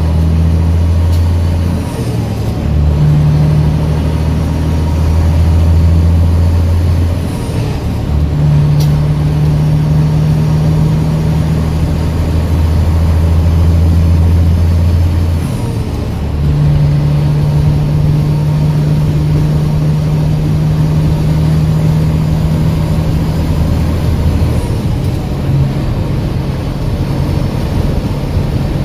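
Sand truck's engine running steadily under way, a loud low drone that breaks and changes pitch a few times, as with gear changes.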